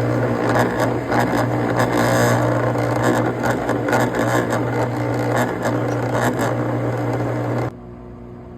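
Lennox furnace inducer motor running loudly: a steady low hum with a rough, rattling buzz over it. Near the end it cuts suddenly to a much quieter hum.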